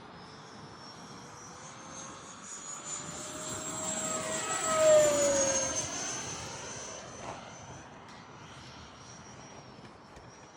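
Freewing Eurofighter RC jet's electric ducted fan whining in flight as it makes a low pass: the whine grows louder, peaks about halfway through with its pitch dropping as it goes by, then fades.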